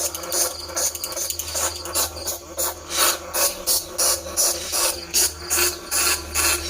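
Rapid, irregular high-pitched squeaks and chitters of a bandicoot rat call, played as a lure to draw rats in for trapping. There are about three or four squeaks a second, over a steady low hum.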